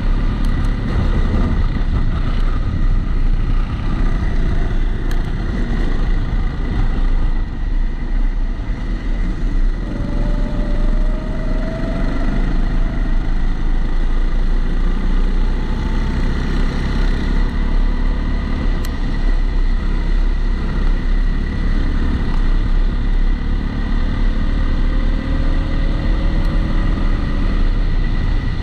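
Onboard sound of a Kombikart Eco rental kart's engine running under load, its pitch climbing slowly as it revs up out of corners, over a heavy low rumble. The sound comes through a GoPro's waterproof housing, which adds a steady high whine.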